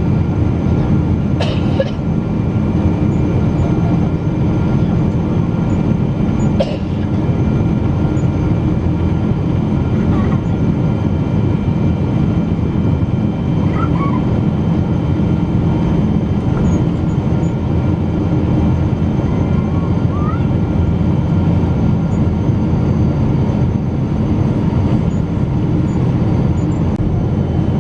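Cabin noise inside a Boeing 777-200 airliner: a steady, heavy drone of engines and airflow with faint steady whine tones above it. A couple of small clicks come in the first seven seconds.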